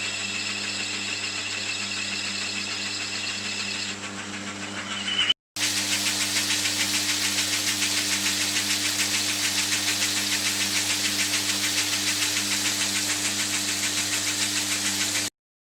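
Metal lathe running on its 1 horsepower electric motor, a steady hum under the noise of a cutting tool turning a small metal hubcap. A high whine of cutting for the first few seconds, then after a short break a louder, even hiss with a fast flutter, which cuts off suddenly near the end.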